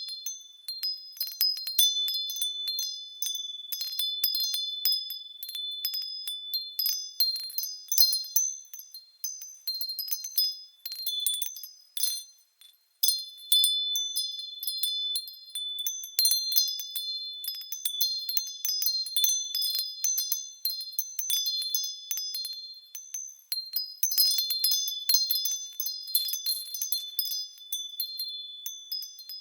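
Japanese furin wind chimes swayed by the wind, struck over and over at an uneven pace, each strike a high, clear ringing tone; the strikes thin out briefly about twelve seconds in.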